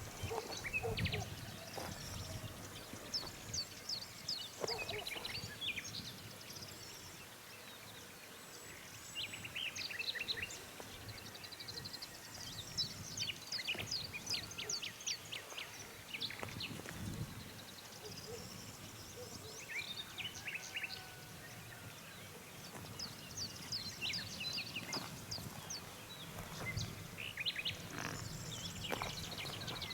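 Songbirds singing in the morning chorus: several overlapping, rapid runs of short high chirps and trills throughout, over faint low background noise.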